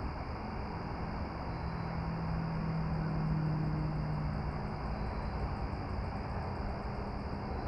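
Outdoor evening ambience: a steady low rumble and hiss, with a distant engine hum that swells around the middle and fades again. Faint, evenly repeating insect chirps sound high above it.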